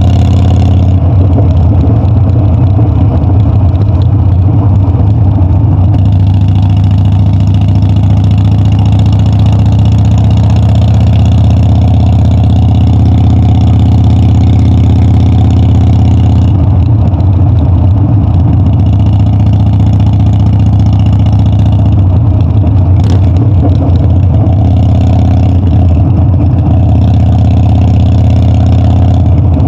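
Harley-Davidson Dyna's V-twin engine running loud and steady under way, its pitch holding level as the bike cruises, with one short click about three-quarters of the way through.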